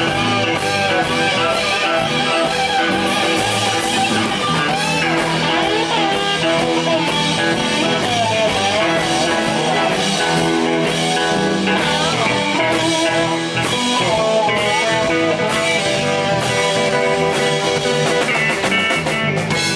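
Live blues-rock band playing an instrumental stretch, guitar to the fore over drums.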